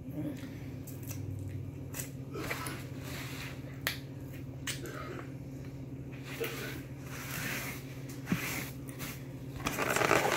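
Chewing and mouth noises with small clicks and soft rustles, over a steady low hum. A louder rustle near the end comes from handling the foam takeout container.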